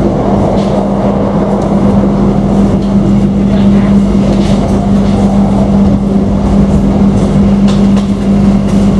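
Passenger train running at speed, heard from inside the coach: a steady rumble of wheels on the track under a constant low hum, with a few faint ticks.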